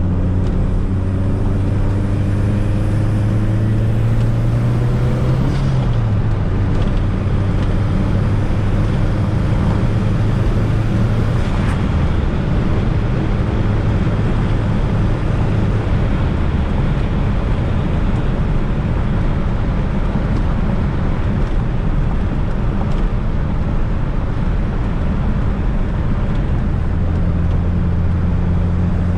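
Fiat Coupe 16V Turbo's turbocharged four-cylinder engine pulling under way, with steady road and tyre noise. The revs climb for about five seconds, then drop suddenly. The engine note shifts again twice before settling into a steady cruise.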